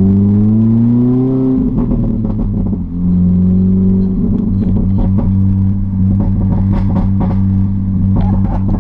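R53 Mini Cooper S's supercharged 1.6-litre four-cylinder through a straight-piped, muffler-deleted exhaust, its note rising under acceleration for about a second and a half. The note then breaks off and dips briefly, as at a gear change, before settling into a steady drone at a constant engine speed, with scattered short knocks and rattles.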